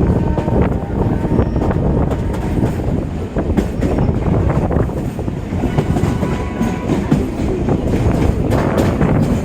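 Indian Railways EMU local train running, heard from on board: a steady, loud rumble with the wheels clicking over rail joints.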